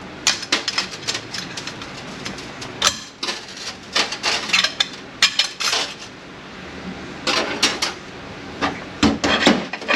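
Metal parts of an 8L90 automatic transmission's clutch pack clinking and clattering as they are handled, in irregular clusters of sharp clicks.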